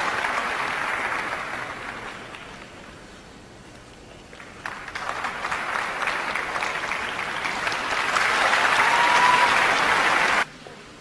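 Arena crowd applauding: the applause dies down over the first few seconds, swells again about halfway through, and cuts off suddenly near the end.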